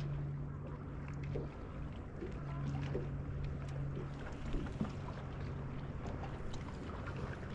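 A steady low hum from a motor on a fishing boat, cutting out for about a second near the two-second mark and then resuming, over faint water and wind noise with a few light clicks.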